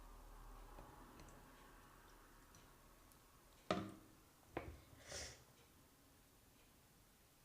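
Near-quiet room with two sharp knocks, a little under a second apart, about halfway through, followed by a short rustle: something being handled and set down.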